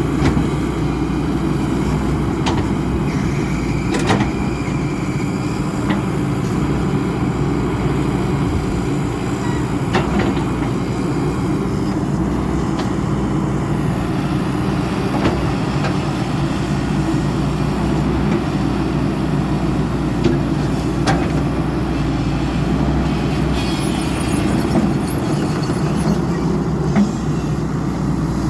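XCMG 140 excavator's Cummins diesel engine running steadily, with a few sharp knocks over it.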